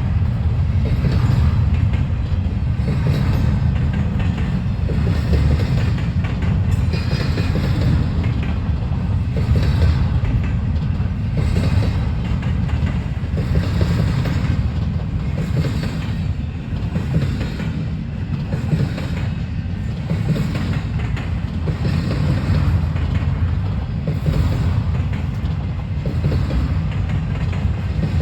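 Intermodal freight train cars rolling past: a steady low rumble of steel wheels on rail, with repeated clacks about once a second as the wheel trucks cross rail joints.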